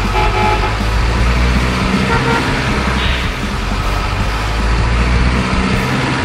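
Truck engine running steadily, with short horn toots, over background music.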